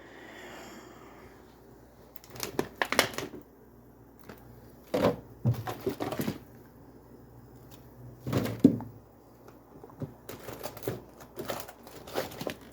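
Groceries being handled and put away: clusters of clicks and knocks, in about four bursts, as items and packaging are picked up and set down.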